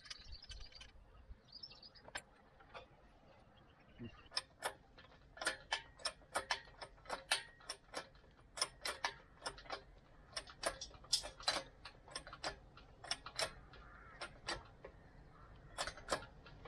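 Ratchet of a hand-operated lifting mechanism clicking in irregular runs of sharp clicks, a few a second, starting about four seconds in, as a heavy metal lathe is raised.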